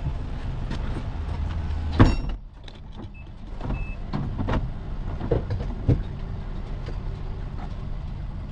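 Honda Accord's engine and road noise while driving under way, with a sharp knock about two seconds in, after which the engine sound briefly drops.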